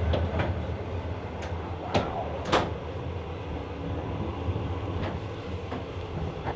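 Steady low rumble of a moving passenger train heard from inside, with a scatter of sharp clicks and knocks like doors and latches; the loudest knock comes about two and a half seconds in.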